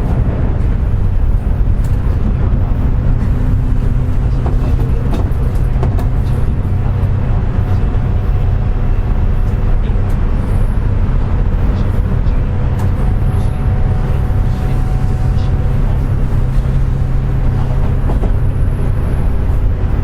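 Running noise inside a JR West 201-series electric train's motor car, with a steady low rumble and a faint steady whine over it. The motor bearings are pitted by electrical corrosion, which gives this car its jet-like whine.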